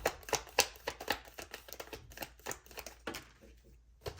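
Tarot cards being shuffled and handled: a quick run of sharp card snaps and taps, about five a second, stopping about three seconds in, then one more tap near the end.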